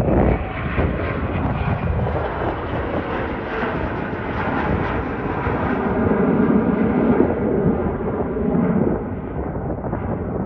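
Jet engine noise from a departing Delta Boeing 717, its two rear-mounted Rolls-Royce BR715 turbofans at high power. It is a dense rumble that grows to its loudest about six to seven seconds in, then eases slightly.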